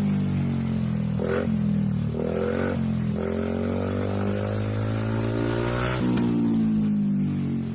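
Yamaha NMAX scooter's single-cylinder engine running through an aftermarket racing exhaust, idling with short throttle blips about a second in, around two and a half seconds and near six seconds.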